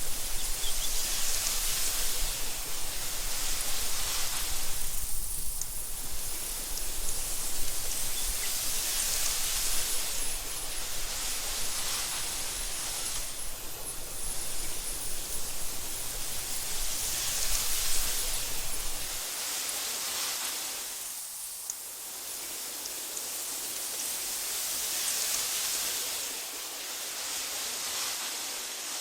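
Wind blowing through tall meadow grass: a steady hiss that swells and fades in gusts about every eight seconds. A low rumble under it stops about two-thirds of the way through.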